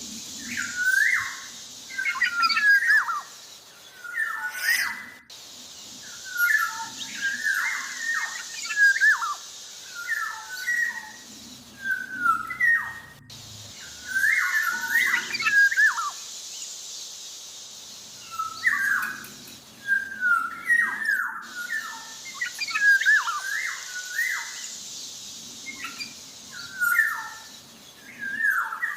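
Black-naped oriole (kepodang) singing vigorously: short phrases of fluty, sliding whistles repeated every second or two, over a steady high hiss.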